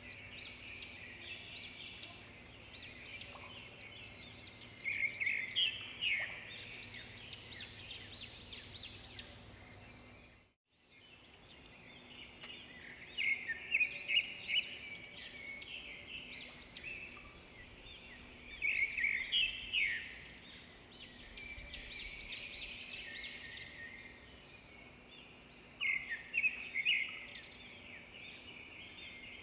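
Songbirds chirping and singing in quick, high-pitched bursts and trills, several calls overlapping. There is a brief break about ten seconds in.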